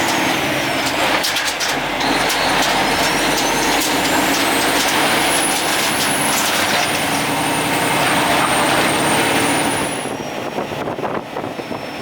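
Logging truck under way, its engine and road noise running steadily, with a faint high whine that rises and falls. The noise drops noticeably about ten seconds in.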